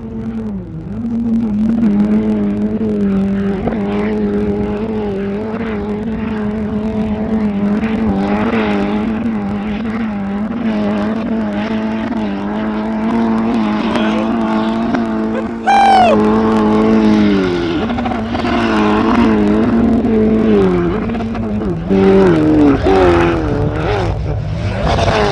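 Truck engine running hard at high, steady revs as it drives on sand; the engine note dips and picks up again about two-thirds of the way through, and again near the end. A short, sharp falling whine cuts in shortly before the first dip.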